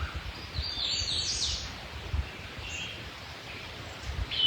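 Wild birds singing outdoors: several separate high chirping songs, including a quick falling phrase about a second in and a louder call near the end. A low, uneven rumble runs underneath.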